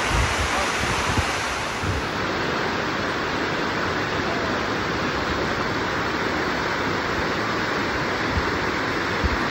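Steady rush of water cascading down Dunn's River Falls close to the microphone, with a few low wind bumps on the microphone near the start.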